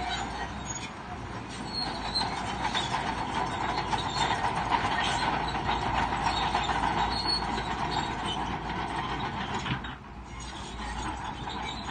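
Crawler bulldozer working, its steel tracks clanking and squealing over the running engine. The noise drops sharply about ten seconds in, then builds again.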